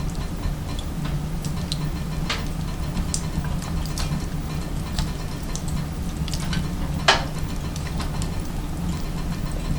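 Firewood crackling and popping as it burns in a wood-burning stove: scattered sharp pops, the loudest about seven seconds in, over a steady low hum.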